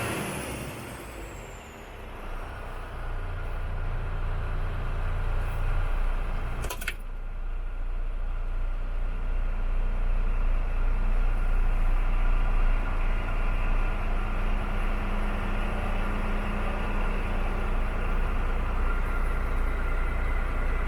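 Iveco Stralis Hi-Way 460 truck's diesel engine idling steadily, with one brief sharp sound about seven seconds in.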